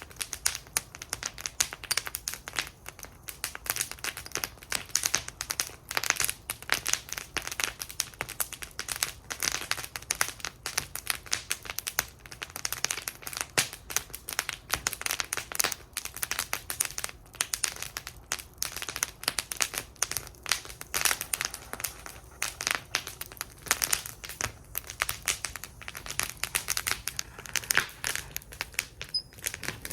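Wood fire burning in a fire bowl, crackling and popping continuously with many irregular sharp snaps.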